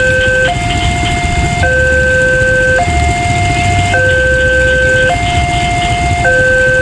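Railway level-crossing warning alarm sounding: an electronic two-tone signal switching between a high and a low chord about once a second, warning that a train is about to pass. A low rumble runs underneath.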